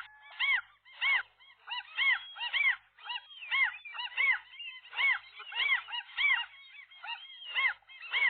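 Gulls calling over and over in agitation, short arched cries about two a second, several birds overlapping.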